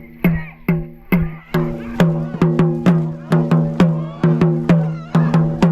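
Dragon boat drum beaten in a steady stroke-pacing rhythm, each hit a low ringing boom. The beats come about two a second, then quicken to nearly three a second about two seconds in, a faster stroke rate.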